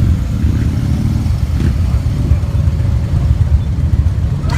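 Many motorcycle engines running together at a large ride, a steady, dense low rumble.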